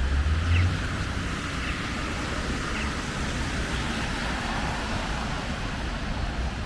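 City street traffic on a wet, snowy road: a steady hiss of tyres in slush, with a low engine rumble from a passing vehicle in the first second.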